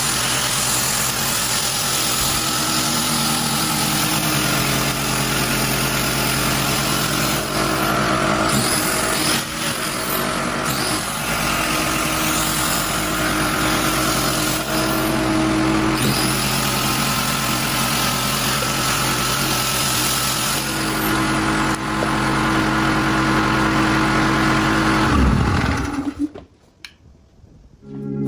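Small engine running steadily at a constant speed, then shutting off abruptly about two seconds before the end.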